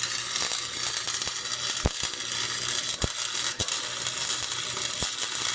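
Wire-feed welder arc crackling steadily, with scattered sharp pops, on a 90 amp Harbor Freight unit welding the truck's rear differential to lock it.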